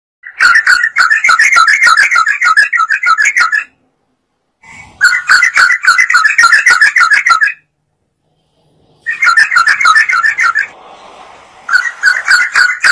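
Yellow-vented bulbul (trucukan) singing in loud bursts of rapid, chattering notes, about ten a second. There are three bursts of roughly three seconds each, separated by short silences, and a fourth begins near the end.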